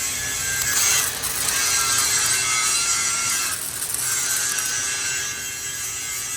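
MIG welding arc crackling and hissing steadily as a bead is laid.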